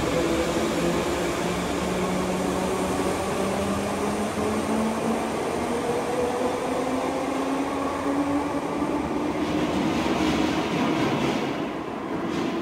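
Merseyrail electric train pulling away from an underground platform, its motors whining in slowly rising tones as it speeds up and runs off into the tunnel. The sound fades near the end.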